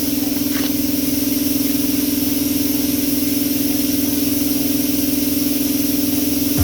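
Air compressor running steadily, an even, fast-pulsing hum.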